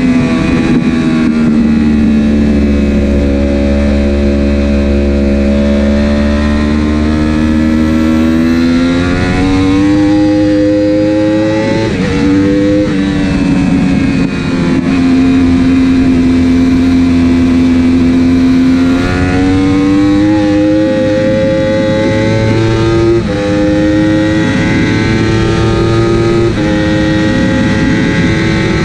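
Racing superbike's engine heard onboard at race pace. Its pitch sinks and climbs several times, with sudden drops a few seconds apart near the end as it shifts up through the gears, over steady wind rush.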